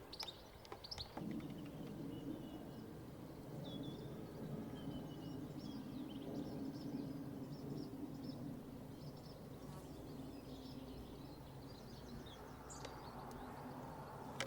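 Small birds chirping and singing in short scattered phrases over a steady low drone that sets in about a second in.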